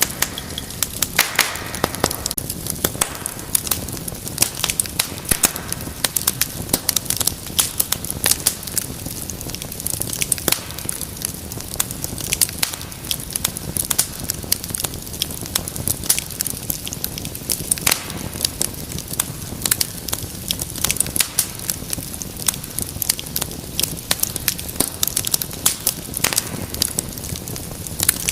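Wood fire crackling and popping: dense, irregular sharp snaps over a low steady rush of flame.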